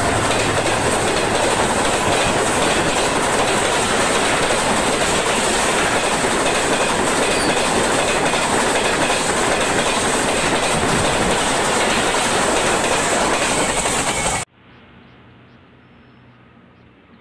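Express passenger train coaches passing close by at speed: a loud, steady rush of train noise. It cuts off abruptly about three seconds before the end, leaving only a faint hiss.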